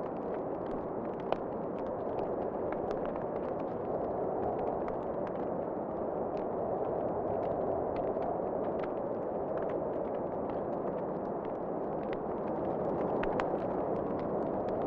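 Wood fire crackling with scattered small pops and one sharper pop about a second in, over a steady rush of howling wind that swells and eases.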